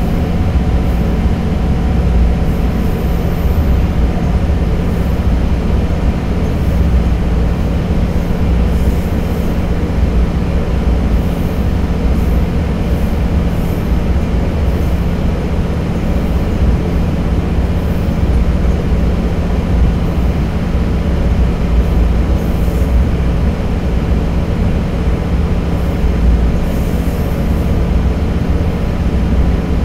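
Diesel railcar running at steady speed through a long tunnel, heard from inside the car. There is a continuous engine hum and the rumble of the wheels on the rails.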